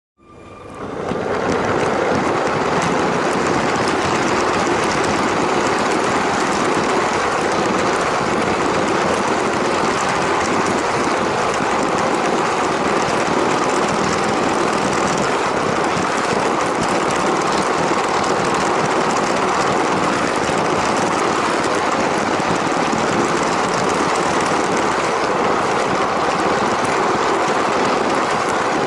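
LEGO train running on its track: a steady whirring, rattling noise that fades in over the first second or so and then holds even.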